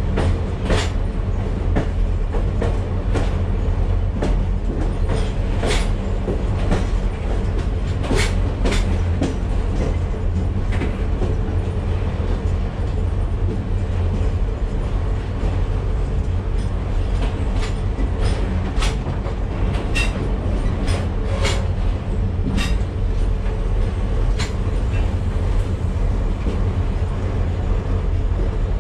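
Passenger train coach rolling along the track, heard from inside the car: a steady low rumble with irregular sharp clicks and knocks from the wheels and rails.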